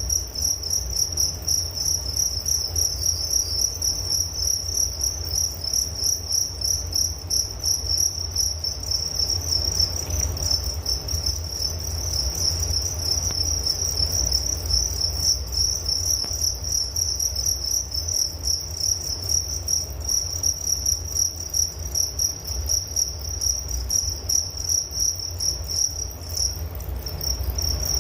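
Crickets chirping in a continuous, rapidly pulsing high-pitched trill, with a low rumble underneath.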